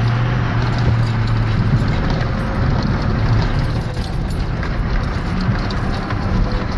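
Ford Power Stroke diesel pickup truck being driven across a field, its engine running steadily with a low drone.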